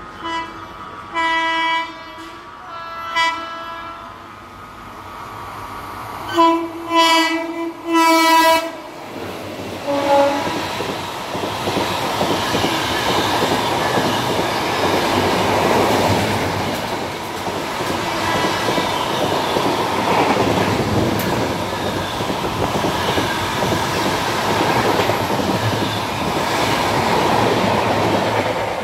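Train horn sounding: three short blasts, then three longer blasts about six to eight seconds in, and one brief lower note near ten seconds. Then a train runs past with a steady rumble and the clickety-clack of wheels over rail joints.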